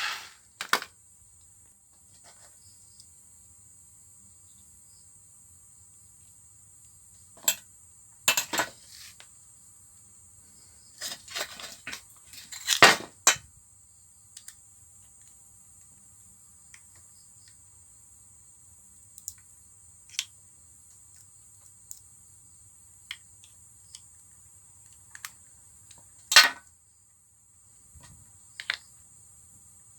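A power drill cuts off right at the start, then metal parts and tools clink and knock on a workbench in scattered sharp taps, with a cluster about 11 to 13 seconds in and a loud one about 26 seconds in. A steady faint high hiss and a low hum run underneath.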